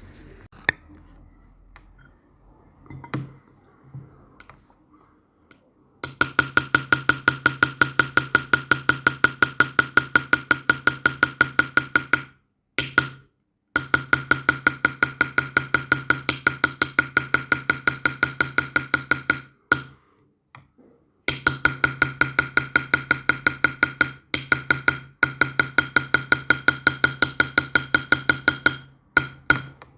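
Rapid, even metal tapping, about five strikes a second, in runs of several seconds broken by short pauses. Each strike rings at the same pitch. This fits a small hammer driving a chasing or engraving punch into silver by hand.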